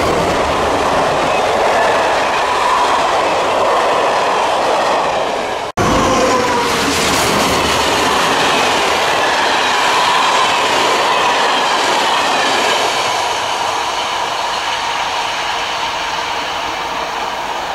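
Heritage passenger train, headed by a BB 67500 diesel locomotive and the 231K8 steam locomotive, running past close by: a steady rumble of coach wheels on the rails with a clickety-clack over the rail joints. It cuts out for an instant about six seconds in, then fades slowly as the train draws away.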